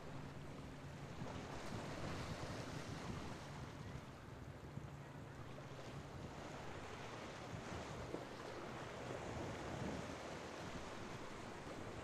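Surf washing through the inlet and wind buffeting the microphone, a steady rushing noise. A boat engine's low hum is heard faintly under it at the start and fades within about a second.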